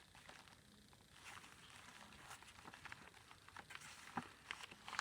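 Faint rustling and a few soft ticks of paper and card being handled as journal pages and tucked cards are moved.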